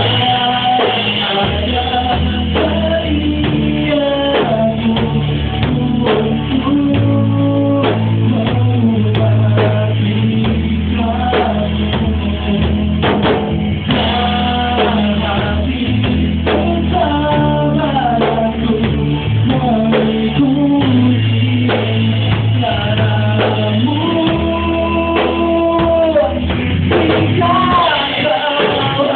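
A pop-rock band playing a song on drum kit, bass and electric guitar, with a melodic lead line that slides between notes over a bass line that changes note every second or two. The top end is cut off, giving a dull, low-fidelity sound.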